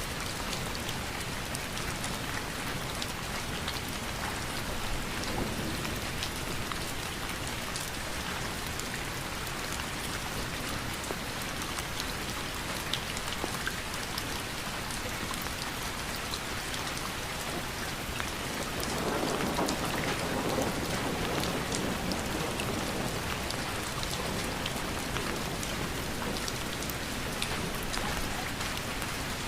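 Steady rain falling, with individual drops ticking sharply on a surface close by. The rain swells louder for a few seconds about two-thirds of the way through.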